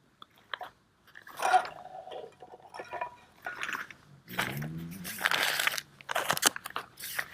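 Food packaging and containers being handled: irregular crinkling of plastic wrap with clicks and knocks, getting busier after about a second.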